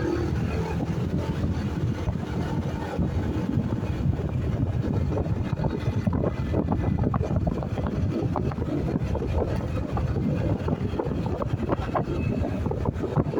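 Wind rumbling and buffeting on the microphone of a moving motorcycle, with the bike's running noise underneath. It gets suddenly louder just before the start and then stays steady.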